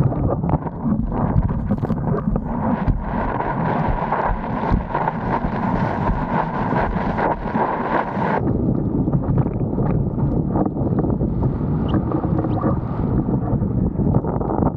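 Wind buffeting an action camera's microphone on a windsurf rig, over the rush of water under the sailing board. A brighter hiss joins in about three seconds in and cuts off suddenly a little past eight seconds.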